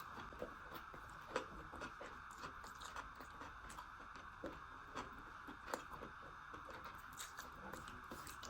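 A person chewing food close to the microphone, faint wet mouth sounds and irregular soft clicks, over a steady faint hiss.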